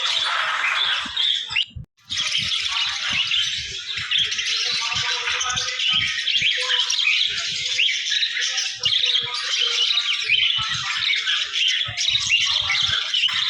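A flock of small cage birds chirping and squawking together in a dense, continuous chatter, broken by a brief gap about two seconds in.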